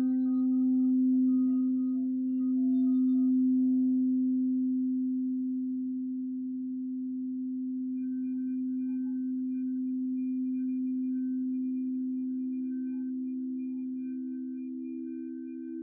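Singing bowl sounding one steady low tone that slowly swells and ebbs. Its higher overtones die away in the first few seconds, and faint pulsing high overtones come in about halfway through.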